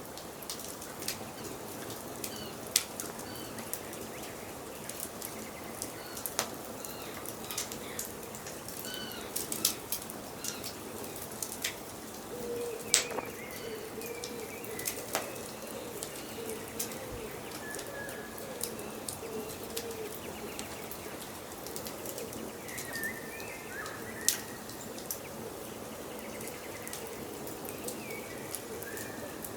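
Wood fire crackling in a fireplace, a steady hiss with frequent sharp crackles, with forest birds chirping in the background, busier from about halfway.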